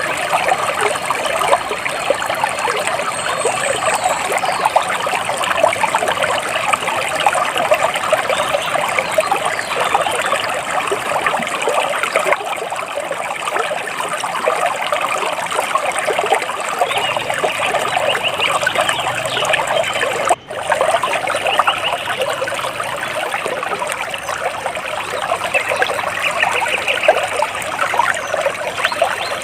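Water trickling and splashing steadily over stones, like a small stream or cascade. It cuts out for a split second about two-thirds of the way through.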